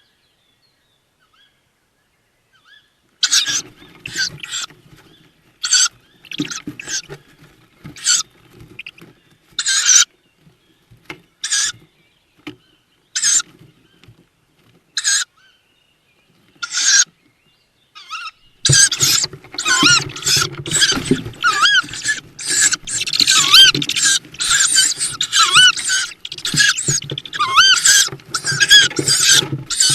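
Tawny owl chicks in a nest box giving hissing begging calls in short, spaced bursts. About two-thirds of the way in the calls turn continuous and busier, with chirping notes mixed in.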